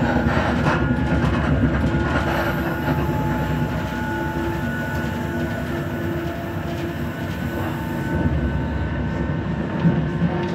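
Passenger train running at speed, heard from inside the carriage: a steady rumble of wheels on the rails with faint steady whining tones over it, and a single sharp clack near the end.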